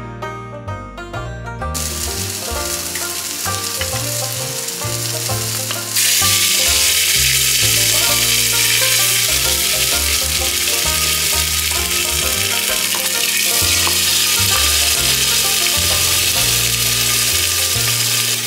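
Masala paste sizzling and frying in a hot clay pot while it is stirred with a wooden spatula. The sizzle begins about two seconds in and gets much louder from about six seconds in. Background music plays throughout.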